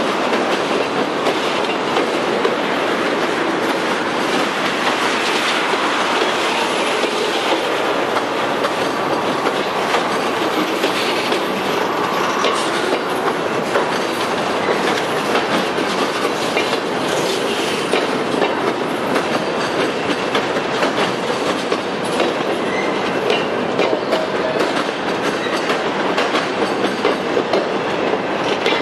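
Freight train's boxcars and tank cars rolling slowly past at close range: a steady rumble of steel wheels on the rails with a clickety-clack over the rail joints.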